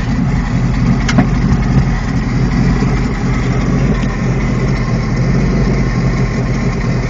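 Helicopter engine and rotor noise, steady and loud, with a brief click about a second in.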